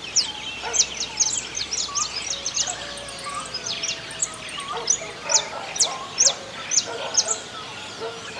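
Several wild birds singing together in a dawn chorus: many short, sharp, high chirps that sweep downward, repeated a few times a second, over softer, lower warbling calls.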